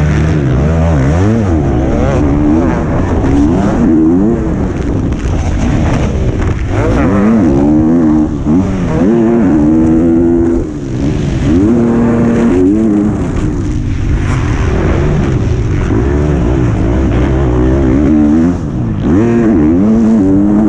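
A 125cc two-stroke motocross bike's engine heard onboard under race riding, its pitch rising and falling again and again as the throttle is opened and closed, with short dips where the throttle is shut about halfway through and again near the end.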